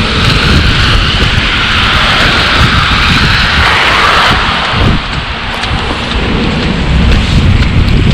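Wind buffeting the microphone with a steady low rumble, and a vehicle's tyres hissing on the wet, slushy road as it passes, fading out about four and a half seconds in.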